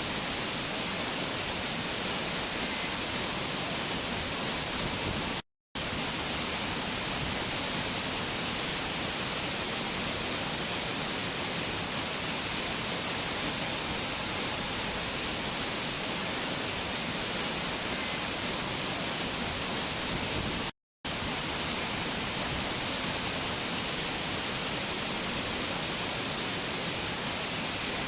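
A waterfall rushing steadily, an even, unbroken roar of falling water. It cuts out to silence for a split second twice, about five seconds in and again about twenty-one seconds in.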